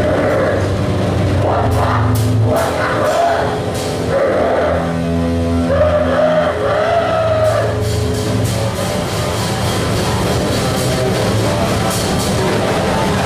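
Harsh noise music played loud: a dense wall of distorted sound over a steady low drone. Warbling, wavering tones come and go through the middle of it, with crackling clicks on top.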